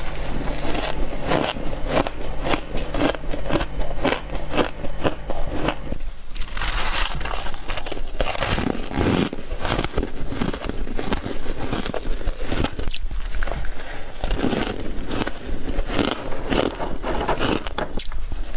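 Close-up crunching and biting of frost, a dense run of sharp crisp crunches. About six seconds in, a low steady hum behind the crunching stops and a new stretch of crunching begins.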